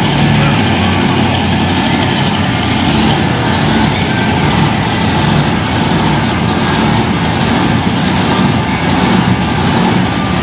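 Monster truck's 540-cubic-inch, 1,500-horsepower engine running loud and steady.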